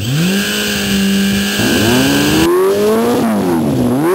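Yamaha YZF600R's inline-four engine breathing through a Micron aftermarket exhaust, revving. The revs rise quickly and hold steady, then climb higher, drop sharply near the end and pick up again.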